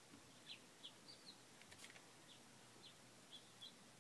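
Near silence, with faint, brief bird chirps in the background, about a dozen scattered over the few seconds.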